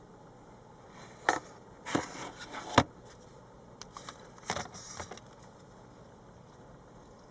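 A series of sharp clicks and short rattles, as of something being handled. They come in two clusters, about a second in and again about four seconds in.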